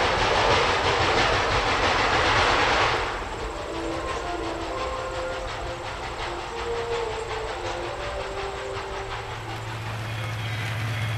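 Train rolling along the rails with a rhythmic clatter, loud for the first three seconds, then dropping suddenly to a quieter rumble; a steady low hum comes in near the end.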